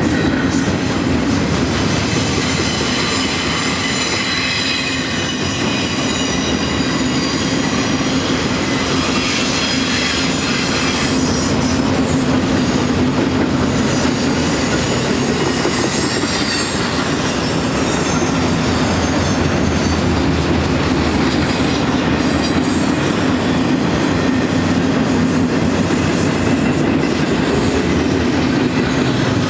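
Container-laden double-stack well cars of a BNSF intermodal freight train rolling steadily past, wheels running on the rails. A thin, high-pitched wheel squeal sounds over the first ten seconds or so and then fades.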